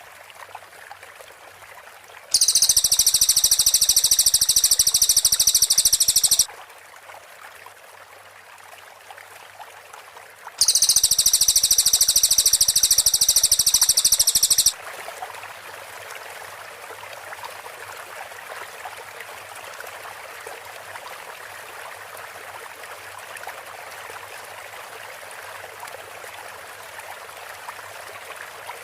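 Cililin songbird singing its fast, dense high-pitched trill ('tembakan rapat'), two bouts of about four seconds each, with a steady water-like hiss underneath.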